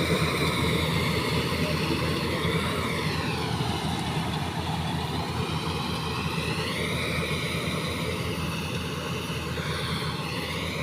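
Rice harvesting machine's engine running steadily under work, gradually getting a little quieter.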